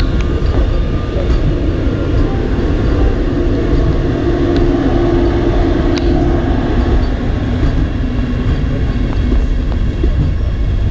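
Vande Bharat Express electric multiple-unit train passing close by at speed, its wheels running on the rails in a steady loud rumble with a few sharp clicks. A humming tone rises over the rumble for a few seconds in the middle and then fades.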